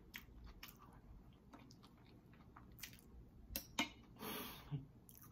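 Close-miked chewing: soft wet mouth clicks and lip smacks, with a short breathy rush about four seconds in.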